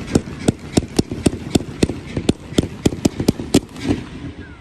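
Low-noise fireworks firing a rapid, even string of sharp pops, about four a second, that stops shortly before the end.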